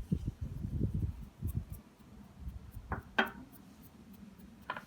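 A spoon knocking against a mixing bowl as spices are added. There are soft low knocks for the first two seconds, then three short, sharp clinks.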